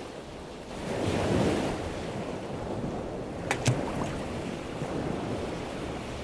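Ocean surf with wind noise: a wave swells about a second in and fades back to a steady wash, with two brief clicks midway.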